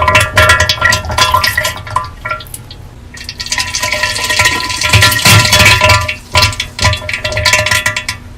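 Loud, irregular wet spluttering and splashing bursts, presented as violent diarrhea sounds. From about three seconds in, the spluttering turns denser and more hissing.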